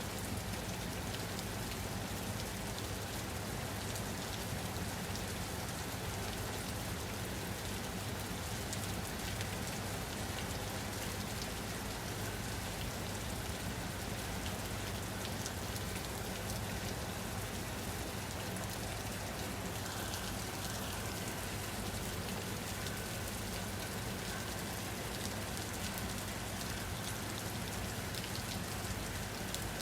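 Steady rain falling on a surface: a continuous, even hiss with scattered drop ticks and a steady low rumble underneath.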